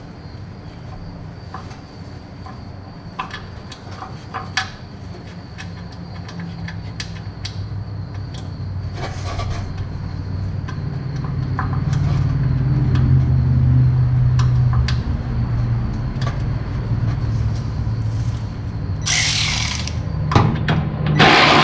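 Hand tools and metal brake hardware clicking and clinking as a brake bracket is worked on, over a steady low hum that grows louder in the second half. A short hiss sounds near the end.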